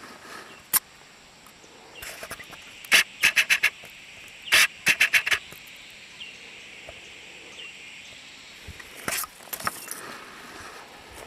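A bird calling in quick bursts of sharp, repeated chattering notes, about six to the second: one burst about three seconds in, a louder one around four and a half seconds in, and a shorter cluster near the end.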